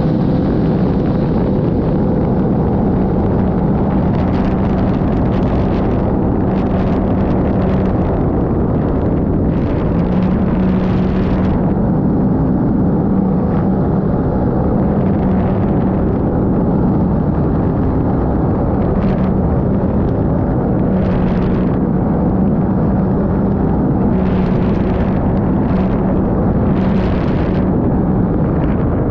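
Sea-Doo GTR 230 personal watercraft under way, its engine holding a steady pitch over a dense rush of water and wind noise. Short bursts of hiss come and go every few seconds.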